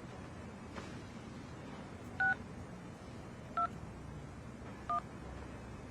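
Phone keypad dialling tones: three short two-note beeps, a little over a second apart, as a number is keyed in.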